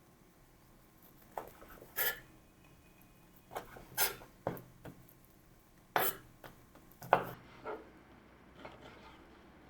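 Kitchenware clinking and knocking: about ten short, sharp knocks at irregular intervals, the loudest about two, four, six and seven seconds in, as utensils and dishes are handled during cooking.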